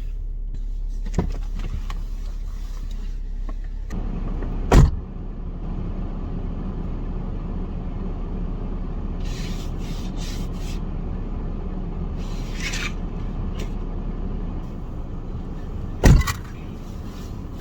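Snow being cleared off a car: a few short scraping strokes, with two loud thumps, one about five seconds in and one near the end, over a steady low rumble.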